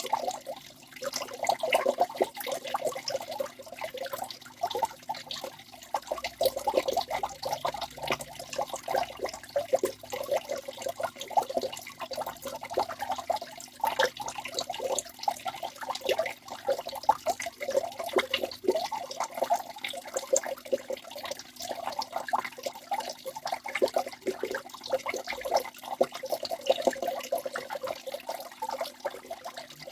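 Waterfall water splashing and gurgling without let-up, a dense run of quick irregular splashes over a steady rush.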